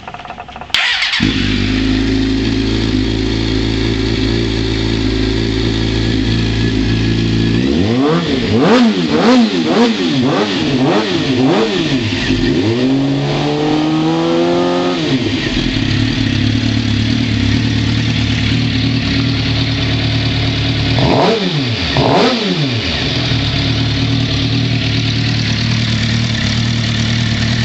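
2006 Suzuki GSX-R600 inline-four running through a full Akrapovic exhaust system: it comes to life about a second in and settles to a steady idle. From about 8 s the throttle is blipped in a quick series of revs, then held up in one longer rev before dropping back to idle; two more sharp blips come around 21 seconds, then it idles again.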